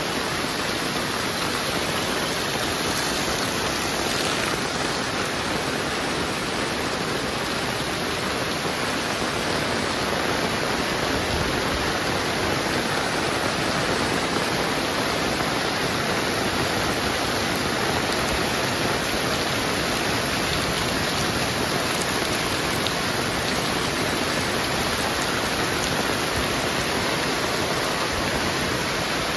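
Heavy rain falling in a steady, dense downpour, an even hiss with no breaks.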